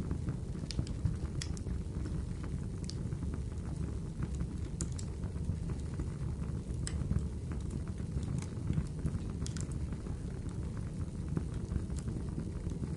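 Wood fire burning in a fireplace: a steady low rush of flames with sharp crackles and pops scattered irregularly, about one or two a second.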